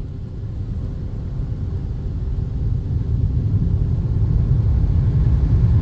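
Car-wash air dryer blowers running, a low rumbling rush of air that grows steadily louder.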